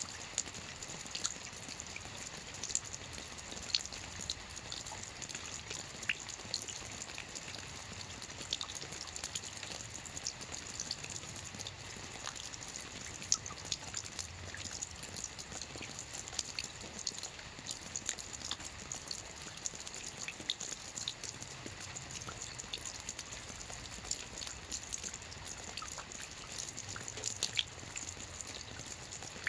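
Soft rain falling on a roof: a steady patter of many small drops, with a faint low rumble underneath.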